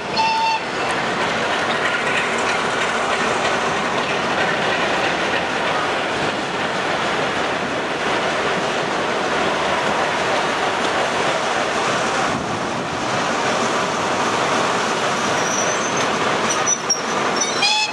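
Passenger coach rolling slowly along the track, heard at an open window: a steady rumble and rattle of wheels on rail, with thin high wheel squeals near the end.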